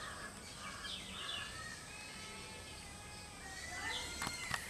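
Birds chirping and calling in the background, short whistled glides over a steady low hum. There are two sharp clicks near the end.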